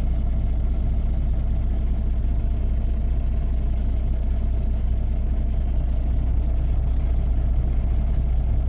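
Semi-truck diesel engine idling, a steady low drone that holds even throughout.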